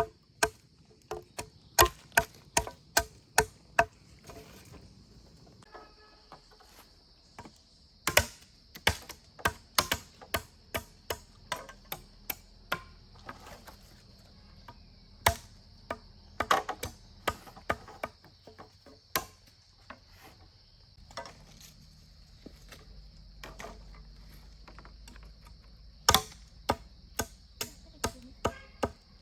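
Runs of sharp, hard strikes, about two or three a second, with pauses of a few seconds between the runs, over a steady high-pitched hum.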